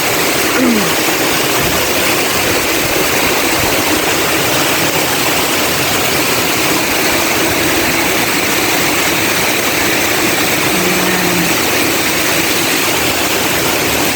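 Heavy typhoon rain pouring steadily in strong wind, a loud even hiss.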